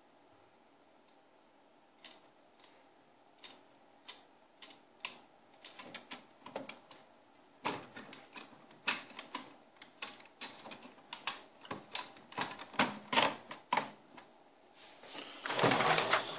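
Irregular plastic clicks and taps from hands working on a laser multifunction printer's scanner and feeder parts, growing busier, then paper rustling near the end.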